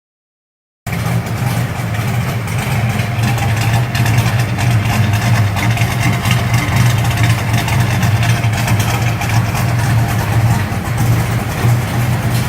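1984 GT350's engine idling steadily through its stock exhaust system, cutting in abruptly about a second in.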